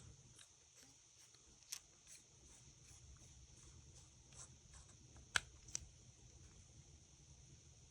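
Near silence broken by a few faint, sharp clicks, the loudest two about five and a half seconds in: a small precision screwdriver working the iPhone 5's tiny pentalobe bottom screws.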